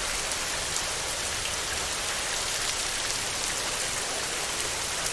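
Heavy rain falling steadily on a tin roof: an even hiss peppered with the patter of individual drops.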